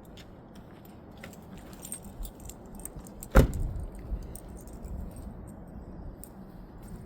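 Small metallic jingles and clicks throughout, with one loud thump about three and a half seconds in.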